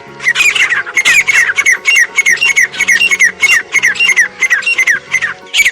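Partridge calling: a fast, loud series of short, harsh, falling calls, about four a second.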